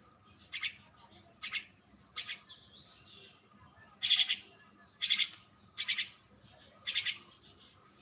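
A bird calling: about seven short, scratchy calls, spaced roughly a second apart.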